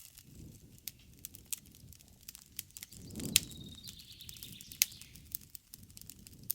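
Wood campfire crackling: scattered sharp pops and snaps over a low flutter of flame, with one loud pop about halfway through.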